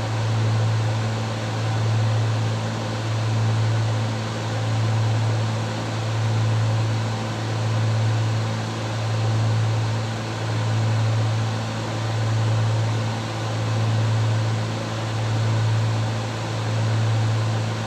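Twin piston engines and propellers of a Cessna 310 droning steadily in cruise, heard in the cabin as a low hum that swells and fades in a slow beat about every second and a half: the two propellers turning at slightly different speeds.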